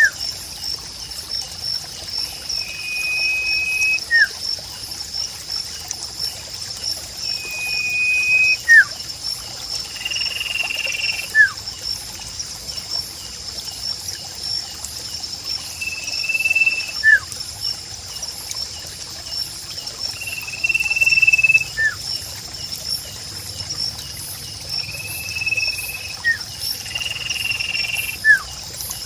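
Bird-song recording of a sirpu, the bird the kicau-mania hobby uses for training and therapy tracks: short level whistles repeat every few seconds, each followed by a quick falling note. Under them runs a steady trickle of water and a continuous high, insect-like buzz.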